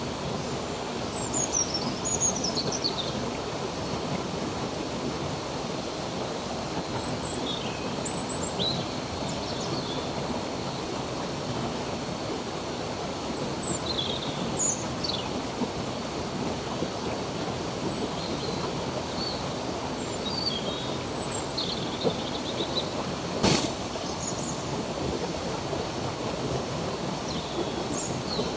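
Stream water running steadily, with small birds chirping briefly now and then over it. A single sharp click about three-quarters of the way through.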